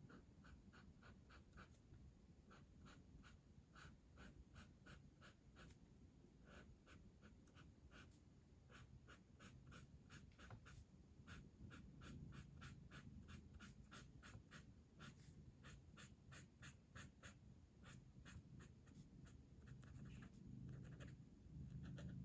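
Quiet scratching of a colouring tool on paper in quick, rhythmic back-and-forth strokes, about three strokes a second.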